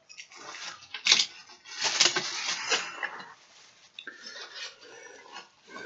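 Small die-cast toy cars being handled and unwrapped: rustling wrapping with light clicks and clinks of metal and plastic, the sharpest click about a second in.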